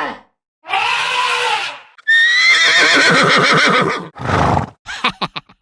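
Animal calls: a breathy call about a second in, then a long, loud quavering call starting about two seconds in, followed by a short burst and a few clicks near the end.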